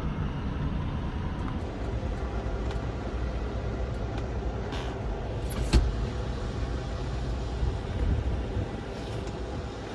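Semi-truck engine and road noise heard from inside the cab, a steady low rumble, with a sharp click a little under six seconds in.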